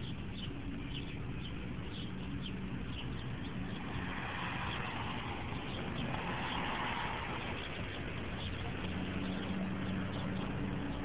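Road traffic: a vehicle passes, swelling and fading about four to seven seconds in, over a steady low rumble, with faint chirps from birds.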